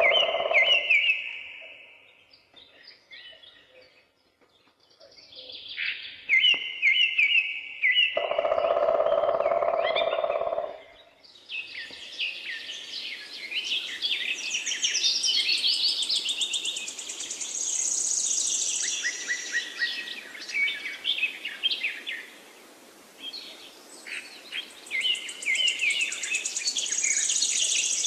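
Songbirds singing: repeated high chirps and trills. About eleven seconds in it thickens into a dense chorus of several birds over a steady hiss of background noise. A lower-pitched sound comes in at the start and again about eight seconds in.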